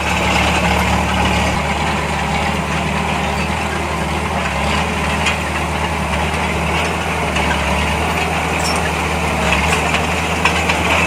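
Heavy diesel engine of earthmoving machinery running steadily at a low, even speed, with a deep hum.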